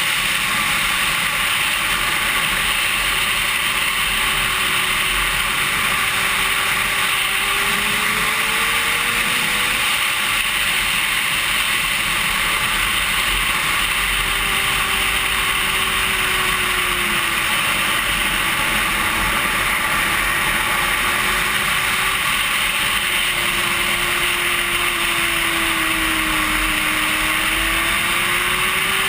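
Racing superbike heard from onboard at speed: a loud steady rush of wind and engine noise, with the engine note rising and falling slowly several times as the throttle and gears change.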